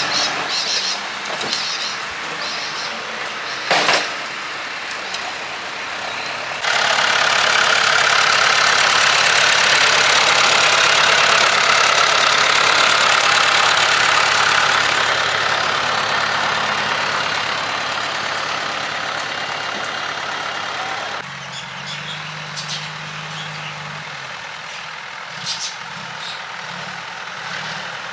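Heavy diesel engine running, with a sharp knock about 4 s in. It turns suddenly much louder and hissier about 7 s in, then drops back abruptly to a quieter, steady engine note about 21 s in.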